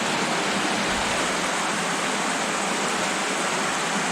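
Steady rush of creek water flowing through a tunnel.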